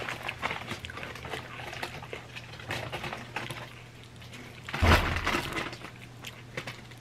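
Close-miked chewing of crunchy chips, a run of small crunches and crackles. About five seconds in there is a louder thump with a burst of crackling.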